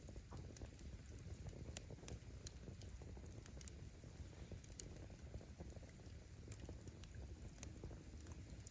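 Wood fire burning: a low, steady rumble of flames with scattered small crackles and pops from the firewood, irregular and fairly faint.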